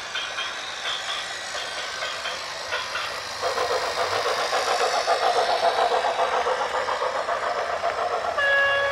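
A train running past, its wheels clattering and getting louder about three and a half seconds in. A steady horn starts sounding near the end.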